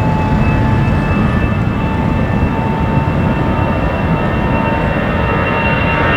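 Twin jet engines of an easyJet Airbus A319 running loud and steady: a deep rumble with a high, even whine of two held tones over it.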